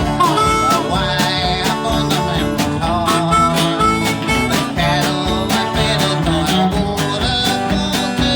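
Country string band playing a song: strummed guitar keeping a steady beat under a melody line.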